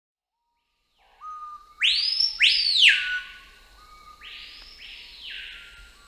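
Bird calls: loud whistles that sweep up and fall back, a louder pair about two seconds in and a fainter pair about four seconds in, over lower, steadier whistled notes.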